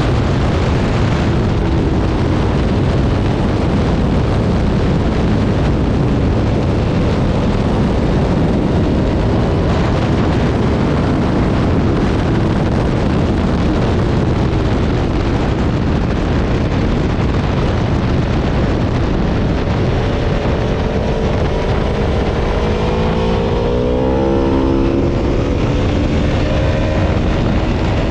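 Aprilia Tuono V4 motorcycle's V4 engine running hard at speed, heard under heavy wind rush, with the engine pitch swinging up and down about three-quarters of the way through as the revs change.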